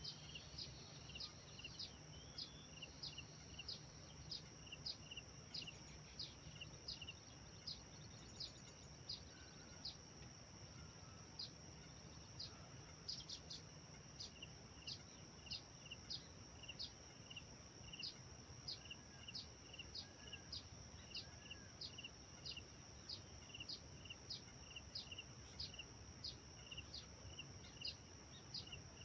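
Birds chirping faintly, a short high call repeated about twice a second, with a brief break midway. Underneath runs a steady high whine and a low hum.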